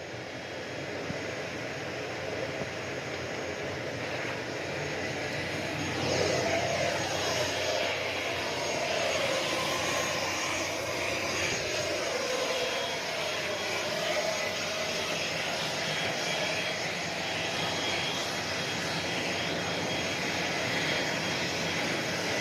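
Jet aircraft engines running on an airport apron: a steady rush with a thin high whine, growing louder about six seconds in and holding there.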